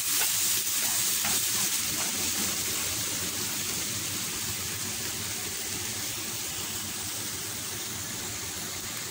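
Sliced bitter gourd (ampalaya) with tomato and onion sizzling in oil in a frying pan, a steady hiss that slowly dies down.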